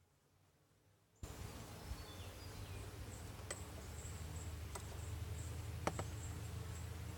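Honeybees humming around an open hive, a steady low drone that cuts in suddenly about a second in after near silence. A few short chirps follow, and three sharp clicks come in the second half.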